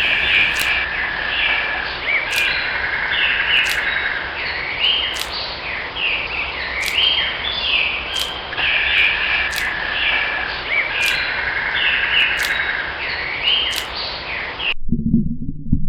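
Birds chirping: quick series of short chirps repeating in a pattern every couple of seconds over a steady hiss. They cut off suddenly near the end, giving way to a low rumbling sound.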